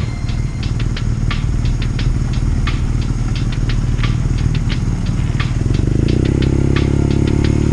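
BMW R nineT's air/oil-cooled boxer-twin engine running at low speed, with many light irregular clicks over it. From about two-thirds of the way in, the engine note rises a little as the bike speeds up.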